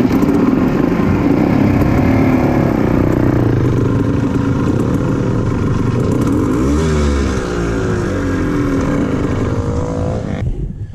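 Dirt bike engine running, with a rev that rises and falls about two thirds of the way through.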